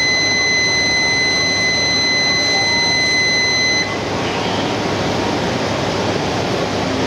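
Door-closing warning buzzer at a Shinkansen departure: one steady high beep that cuts off about four seconds in, over the noise of the busy station platform.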